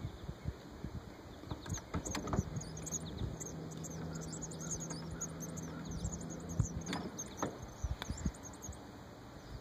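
Small birds chirping and twittering. A steady low hum comes in about two seconds in and cuts off suddenly about seven seconds in, with scattered low thumps throughout.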